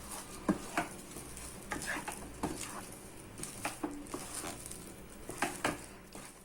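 A utensil stirring a thick, stiffening dough in a pan, with irregular scrapes and knocks against the pan. The dough is thick enough that it no longer sticks to the pan.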